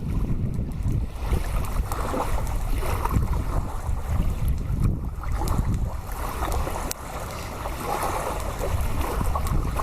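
Strong gusty wind buffeting the microphone: a rumble that swells and eases with the gusts, with a few faint clicks.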